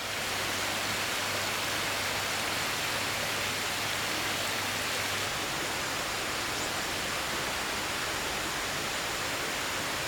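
Steady rush of flowing river water, an even hiss with no breaks, with a faint low hum beneath it that stops about halfway through.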